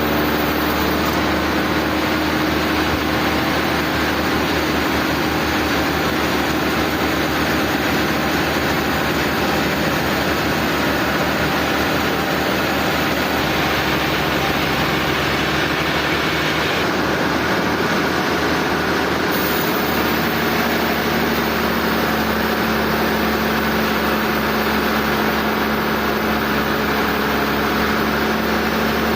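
Sawmill machinery running steadily, a loud continuous mechanical drone with a few steady tones. Its character shifts abruptly several times.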